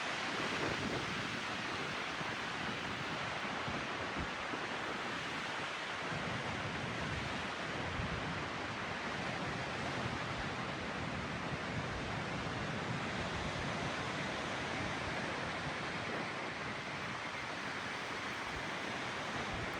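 Strong windstorm wind blowing steadily, with wind buffeting the microphone in a low rumble.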